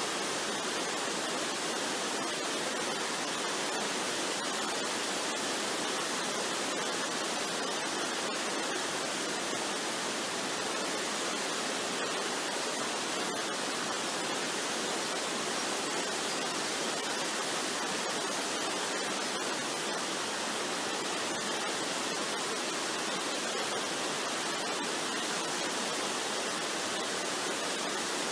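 Waterfall rushing steadily: an even hiss with little deep rumble.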